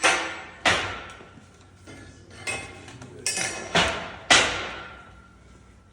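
About half a dozen metallic clanks of steel lifting gear, Rolling Thunder handles and weight plates knocking together as the loaded apparatus is handled. Each clank rings briefly.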